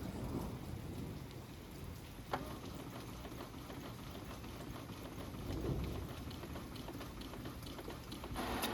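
Steady rain falling during a thunderstorm, with low rumbles of thunder that fade at the start and swell again about two-thirds of the way in. There is one sharp tick a little over two seconds in.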